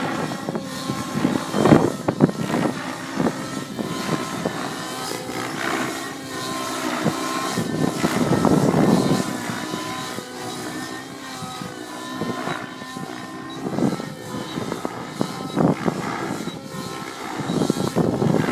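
Nitro-engined radio-controlled helicopter (Align T-REX 700 Nitro) flying, its engine and rotor note wavering up and down in pitch as it manoeuvres. Gusts of wind buffet the microphone several times.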